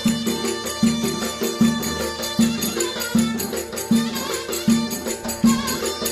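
Turkish folk wedding music: a davul drum beating evenly about every 0.8 seconds under a high, steady melody line.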